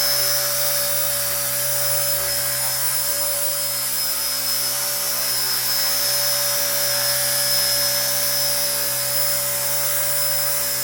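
RC ERA 1:48 scale Huey micro RC helicopter in flight: its small electric motor and rotors make a steady whine that holds one pitch.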